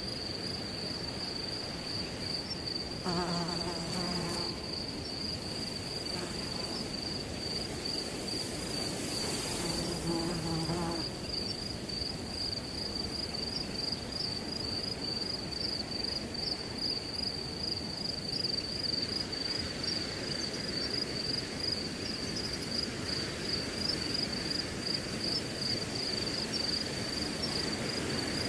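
Crickets chirping in a steady, high, pulsing trill over the rush of wind through grass. A flying insect buzzes past twice, about three seconds in and again around ten seconds in.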